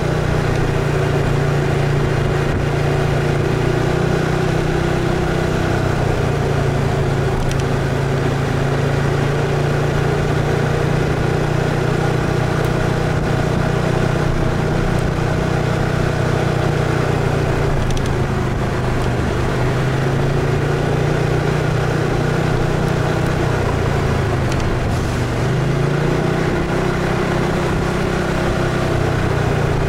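BMW C 650 GT maxi-scooter's parallel-twin engine running steadily while riding in traffic, its note dipping and rising again a few times as the throttle is eased and opened.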